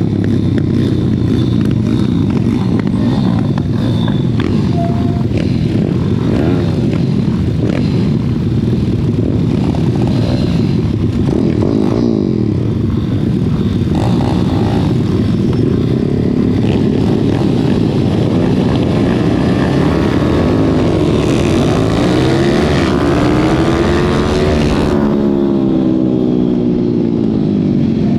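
Racing pit bike's small single-cylinder engine at high revs, its pitch rising and falling again and again through acceleration, gear changes and braking. Rushing wind noise runs underneath, and around twenty seconds in several engine tones rise and fall over one another.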